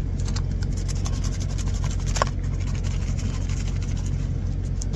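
Steady low hum of an idling truck engine, with a few faint light ticks and one sharper tick about two seconds in.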